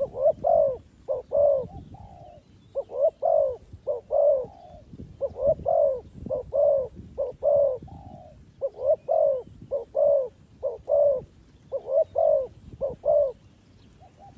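Spotted dove cooing, its call given over and over as short phrases of several low coos with brief pauses in between.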